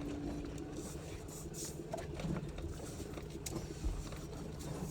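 Ram pickup carrying a truck camper creeping along a rocky dirt road in four-wheel-drive low: a low engine and drivetrain rumble, with rocks grinding under the tires and scattered sharp clicks.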